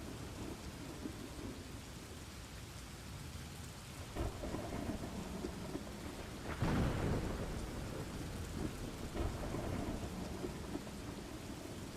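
Steady rain falling, with a louder rumble of thunder a little after halfway through.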